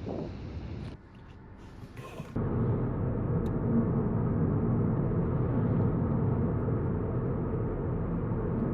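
Wind on the microphone, then a quieter moment with a few light clicks, and about two and a half seconds in the steady low running sound of a Volkswagen Golf GTI mk7.5 starts suddenly and holds.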